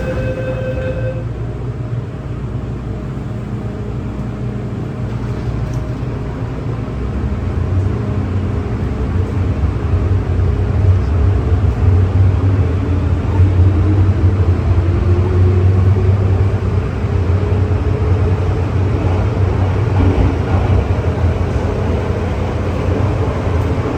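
MTR M-Train electric multiple unit running, with a steady heavy rumble of wheels on the track. From about ten seconds in, a rising whine joins the rumble as the train picks up speed.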